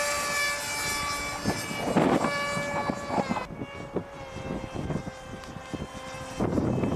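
Electric motor and propeller of a radio-control model plane running with a steady whine that sags slightly in pitch, then drops back to a fainter hum about three and a half seconds in. Near the end a louder rushing noise comes in as the power goes up.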